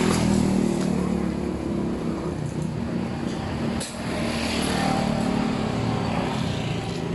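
A motorcycle engine running, its pitch and loudness rising and easing a little, with one short knock about four seconds in.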